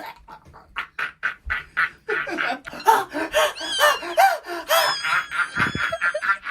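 Meme sound-effect audio: quick rhythmic pulses, then a jumble of squeaky, laugh-like cartoonish voices, with a steady high whistling tone starting about five seconds in.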